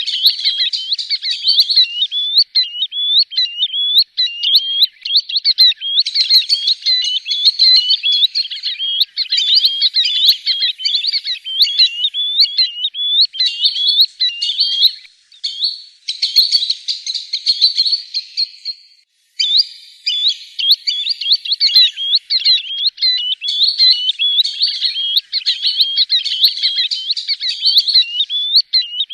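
Green sandpiper calling over and over: a dense run of high, fluty whistled notes, each bending up and down in pitch, with a brief break about two-thirds of the way through.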